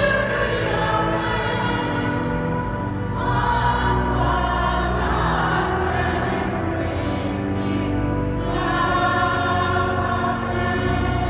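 Choir singing a sacred piece in long held notes over a steady low accompaniment.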